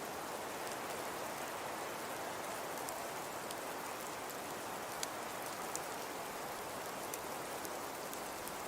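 Fireplace crackling: a steady soft hiss with scattered sharp pops, two of them louder about five and six seconds in.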